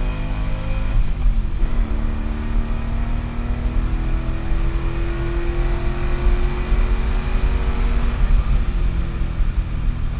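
Car engine accelerating hard through the gears on a drag run, its pitch climbing steadily, with a shift and drop in revs about a second and a half in and another about eight seconds in.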